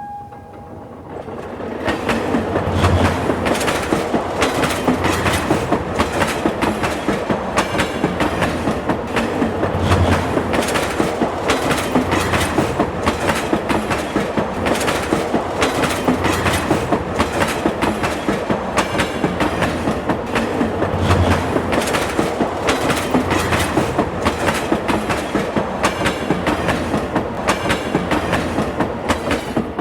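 A train rolling past with its wheels clattering steadily over the rail joints, rising in the first couple of seconds and starting to fade right at the end.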